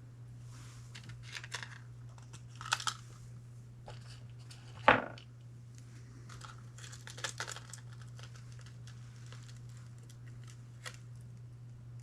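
Small handling sounds from assembling earrings: scattered light clicks and rustles of small metal parts, pliers and a paper card, with one sharper click about five seconds in, over a steady low hum.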